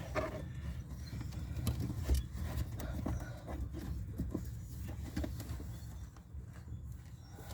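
Scattered light clicks and knocks of tools and parts being handled, over a low steady rumble.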